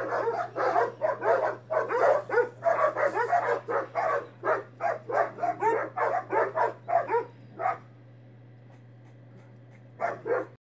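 Dogs barking rapidly and fiercely at each other, several barks a second; the barking stops about three-quarters of the way in, leaving a low steady hum, and two or three more short barks come near the end.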